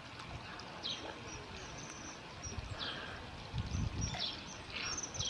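Short, high bird calls, each a quick downward sweep, repeated roughly once a second over steady outdoor background noise, with a brief low rumble about two-thirds of the way through.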